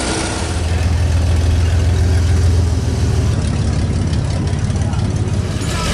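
Classic car's engine running with a low exhaust rumble as it cruises slowly. About halfway through, the rumble turns into a quicker, pulsing throb.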